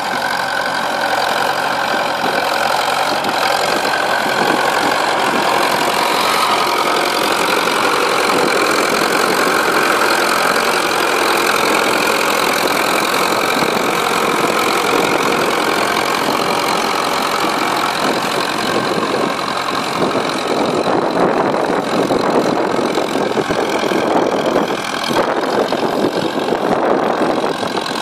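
Fordson Major E27N tractor engine running hard, pulling under load. The sound is steady at first, then turns rougher and more uneven in the last third.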